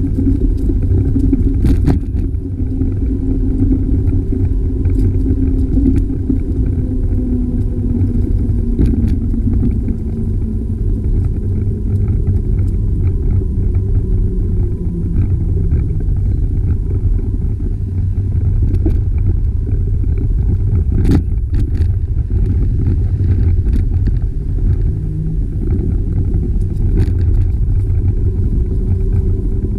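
Steady low rumble of wind and road noise on the microphone of a camera riding along on a moving bicycle. A couple of short knocks from bumps come about two seconds in and again about two-thirds of the way through.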